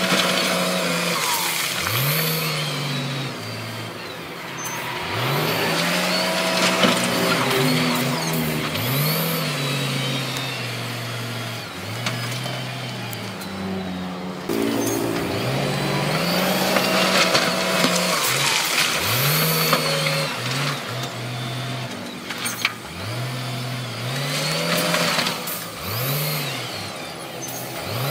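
Heavy diesel earthmoving machinery working, its engine revving up and falling back over and over, about every two to three seconds, with a few sharp knocks.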